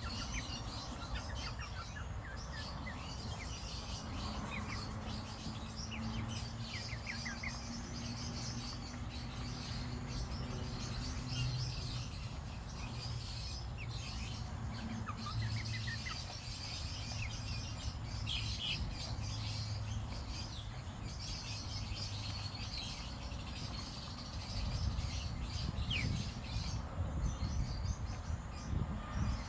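Chicks peeping, many short high cheeps, some falling in pitch, over a steady low hum.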